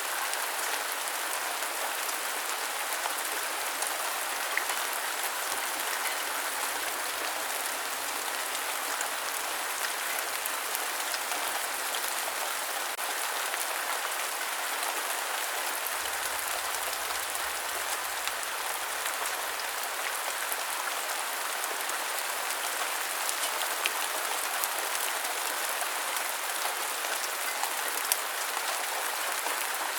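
Steady rain falling on a surface: an even, continuous hiss of many drops, with a few louder single drops here and there.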